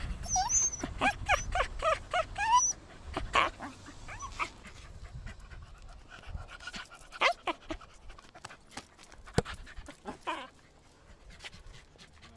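A young animal's high-pitched whining calls: a quick run of short rising cries in the first few seconds, then a few single cries spaced out after it.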